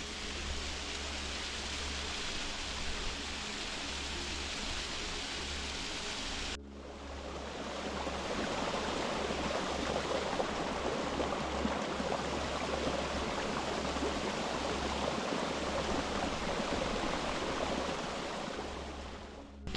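Running water of a small waterfall on a fellside beck, a steady rushing. There is an abrupt cut about six and a half seconds in, after which the water is a little louder.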